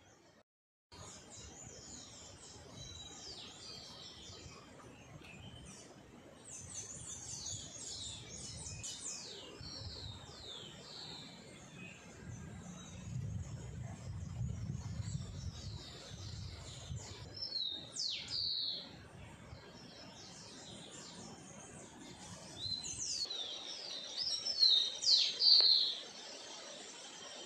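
Wild birds chirping and singing in quick, repeated sweeping calls, louder near the end, over a steady outdoor background with a low rumble about halfway through.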